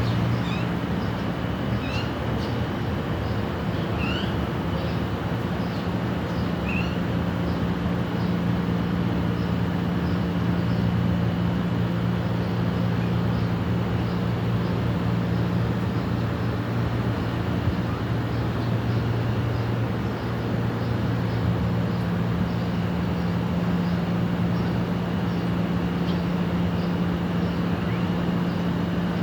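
Birds chirping over a loud, steady low drone of engine or traffic noise. Several short rising chirps come in the first seven seconds, and a faint high chirp repeats at a steady pace throughout.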